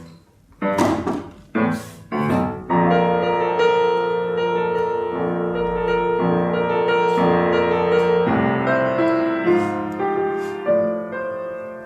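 Piano playing: a few short struck chords, then from about three seconds in, chords held and changing slowly, with a more moving line of notes over the last few seconds.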